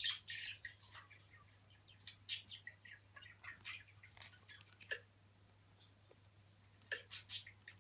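Budgerigar chirping and chattering in short, scattered high chirps, busiest near the start, about two seconds in and near the end, with a quieter gap past the middle.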